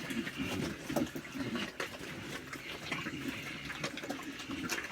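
Pigs eating wet feed: a dense, irregular run of wet smacks and clicks.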